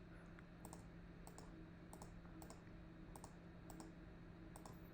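Faint computer mouse clicks, about eight of them at uneven intervals, over a low steady hum.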